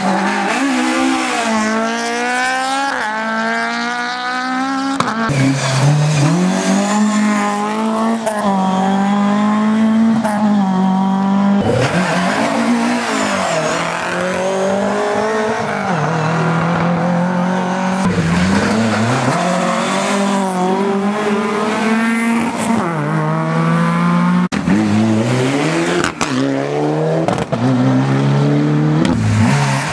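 Rally car engine revving hard at stage pace. Its pitch climbs through each gear and drops sharply at the shifts and lifts, over and over.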